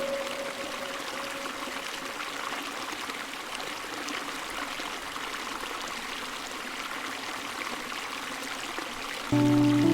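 Running water flowing steadily like a stream, an even rushing and trickling with no distinct events. Music comes in suddenly near the end.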